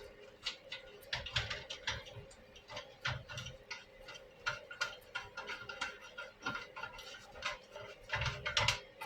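Irregular light clicks and knocks of tools and metal parts being handled during assembly, a few a second, over a steady faint hum.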